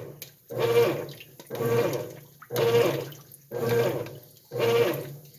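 GE belt-drive top-load washing machine agitating a load in deep water: the agitator sloshes the water back and forth in regular strokes, about one a second, with the drive's hum rising on each stroke.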